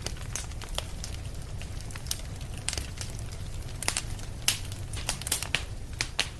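Fireplace fire crackling: irregular sharp pops and snaps, more frequent a few seconds in, over a steady low rumble.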